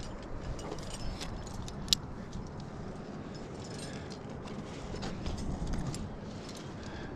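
Metal climbing hardware (carabiners and gear on a harness) clinking and jangling in small irregular clicks, with one sharper clink about two seconds in.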